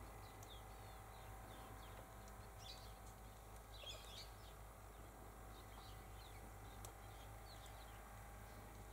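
Faint, scattered chirps of small birds over a low steady hum.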